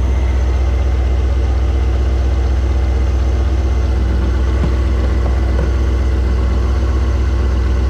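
Chevrolet C5 Corvette Z06's LS6 5.7-litre V8 idling steadily, turning its newly replaced serpentine and accessory belts, tensioners and idler pulley.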